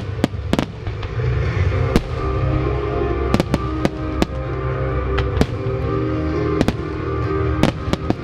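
Aerial firework shells bursting in sharp bangs, about a dozen at irregular intervals, over music with long sustained tones playing for the fireworks display.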